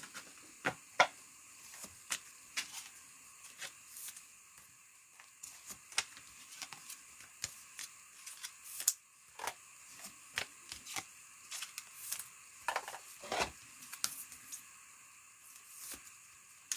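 Trading cards and their packaging being handled: quiet, irregular clicks, snaps and rustles, with a couple of louder snaps about three quarters of the way through.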